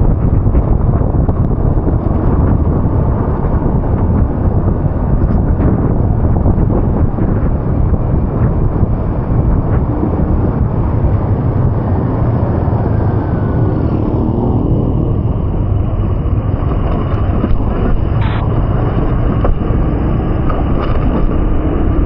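Steady, loud low rumble of vehicle and road noise, with a few faint short tones about two-thirds of the way in and near the end.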